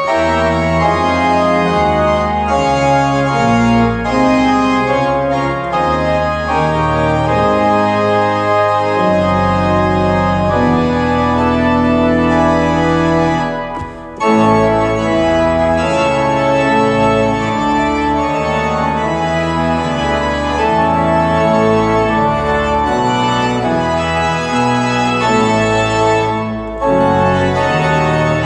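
Organ playing full, sustained chords over a moving bass line, with a brief break between phrases about fourteen seconds in.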